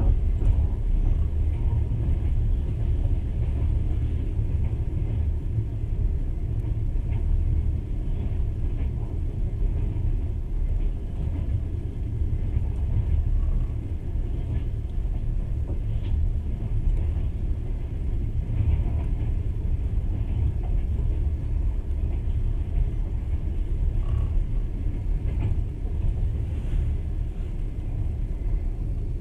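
Steady low rumble of a moving passenger train, heard from inside the carriage as its wheels run along the rails.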